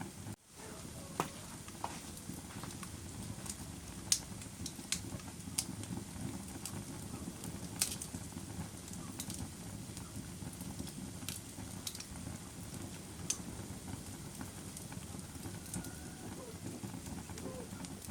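Wood fire burning in a fireplace: a steady low crackle with sharp, irregular pops every second or so, some louder than the rest. The sound drops out for a moment just after the start.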